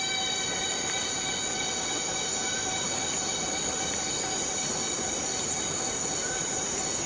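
Steady rainfall in rainforest, an even hiss, with a chorus of insects holding several steady high-pitched tones over it.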